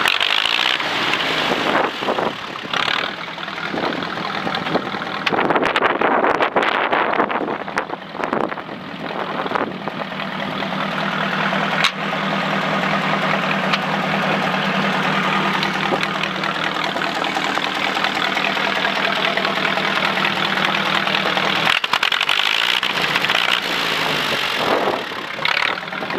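1961 John Deere 2010 tractor's four-cylinder engine running, mostly at a steady speed, with louder, changing sound for a few seconds early on and a change in pitch about 22 seconds in.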